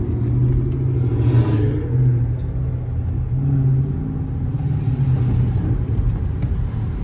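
Car engine running hard at speed with a steady low drone, heard from inside the moving car.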